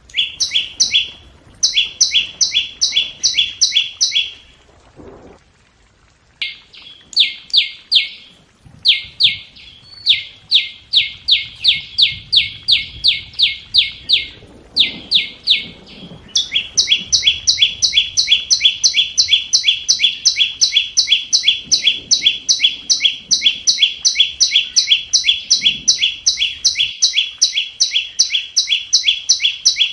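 Flowerpecker call: a fast run of sharp, high, downward-sweeping chip notes, about three to four a second, breaking off in short pauses and then running on unbroken through the second half.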